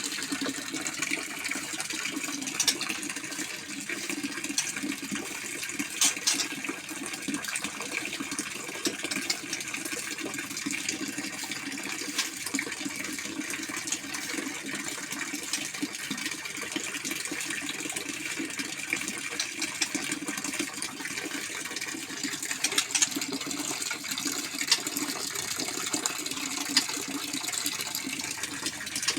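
Steady rush of running water, with a few sharp clicks now and then.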